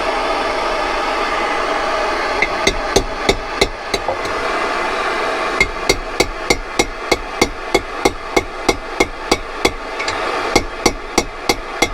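Light, regular hammer taps on a cold chisel being wedged into a bent aluminium cooling fin of a Suzuki T500 cylinder, metal on metal. A short run of taps comes first, then after a pause a steady series of about three taps a second. Each tap eases the heated fin back a fraction at a time without snapping it. A steady hiss from the heat source kept on the fin runs underneath.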